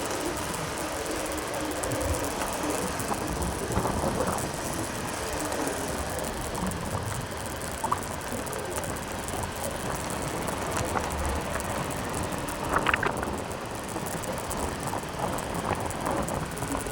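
Steady road and wind noise from riding a motorbike, an even rushing hiss with a few brief faint clicks and chirps, a short cluster of them about 13 seconds in.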